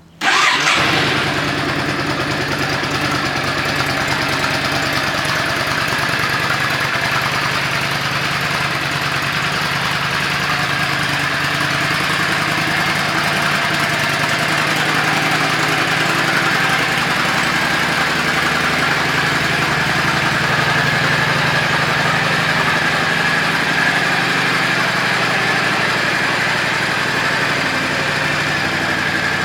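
Yamaha Drag Star 400's air-cooled V-twin, fitted with an aftermarket muffler, starts right at the beginning with a loud burst and settles into a steady idle.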